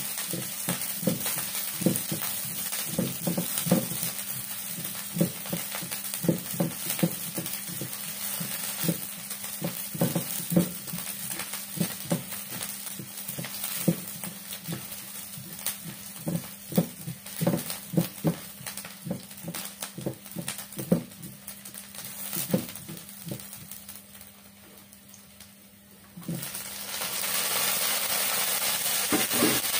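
Garlic and onion frying in oil in a nonstick frying pan, sizzling while a spatula stirs, with frequent irregular taps and scrapes against the pan. About 26 seconds in, a louder steady sizzle starts as tomato pieces go into the hot pan.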